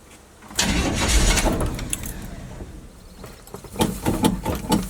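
Keys jangling and a stalled pickup truck's engine being cranked over by the starter, a loud rough churning that starts about half a second in and fades, then comes again near the end; the engine turns over without catching.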